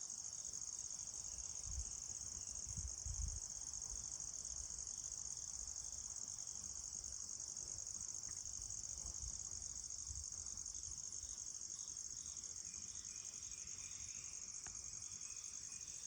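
A steady, unbroken high-pitched chorus of crickets, with a few low thumps about two and three seconds in.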